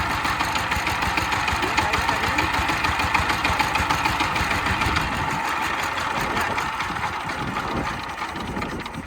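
Small Chinese-made single-cylinder tractor engine running with a fast, steady knocking beat, its sound easing off near the end and dropping away sharply at the very end.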